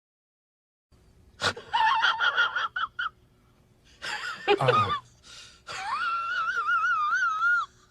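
A high-pitched, wheezing vocal sound effect: after about a second of silence, a click, a run of squeaky gasps, a falling squeal, then a long wavering high wheeze for about two seconds.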